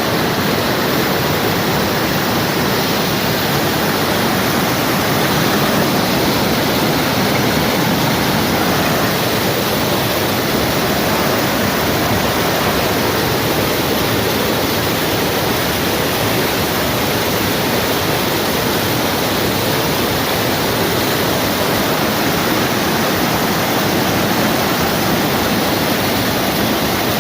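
Waterfall crashing onto rocks: a loud, steady rush of falling water with no let-up.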